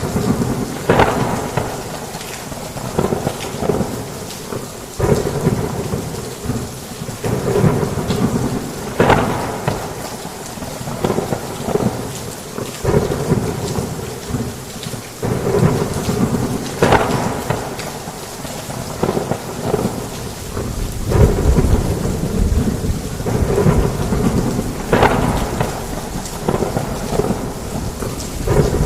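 Heavy rain falling steadily, with thunder: a new sudden crack every few seconds, each fading off in a rolling rumble. A deeper, louder rumble swells about three quarters of the way through.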